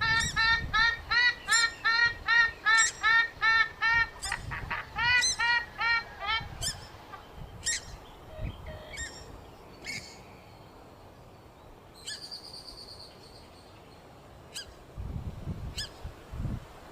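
Gallinule (mandar) calls from a bird-lure recording: a fast run of repeated, honk-like arched notes, about two or three a second, for the first six seconds, then thinning to scattered single notes.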